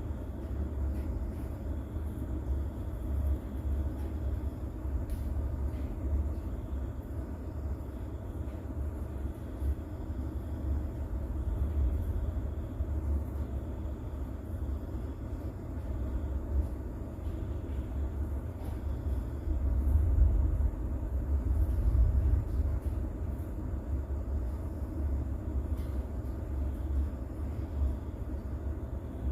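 Steady low rumble of a rain-and-distant-thunder sleep soundscape, with faint scattered drop ticks above it; the rumble swells louder for a few seconds about two-thirds of the way through.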